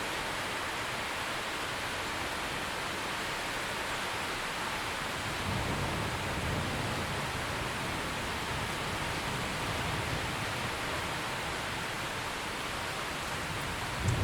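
Steady heavy rain hissing, with a low rumble of distant thunder rolling in about five seconds in and fading over several seconds; another rumble begins at the very end.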